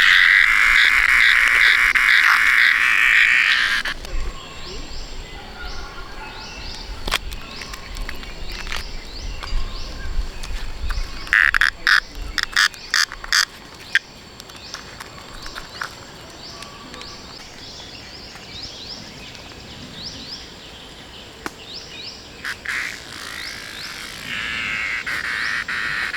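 Frogs calling outdoors: a loud, dense chorus for the first few seconds and again near the end, with fainter rapid chirps and clicks in between and a burst of loud, sharp calls around the middle.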